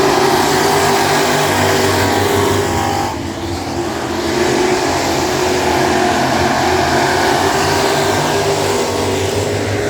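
A field of classic-class dirt track race cars running hard around the oval, several engines sounding at once. The sound dips briefly about three seconds in as the pack moves away, then comes back up.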